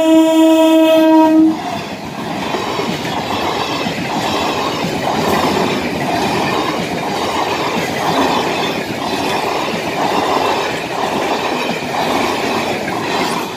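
Train horn sounding a steady chord-like blast that stops about a second and a half in, followed by an Indian Railways train's wheels clattering over rail joints in a regular rhythm, a bit under one beat a second.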